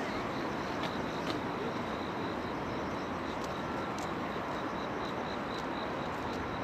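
Steady city traffic noise by the river at night, with a faint high chirping that pulses about three times a second.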